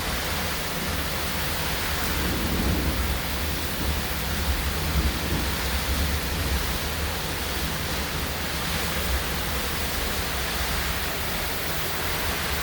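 Heavy rain driven by strong wind: a steady rushing noise with a deep rumble that swells and eases.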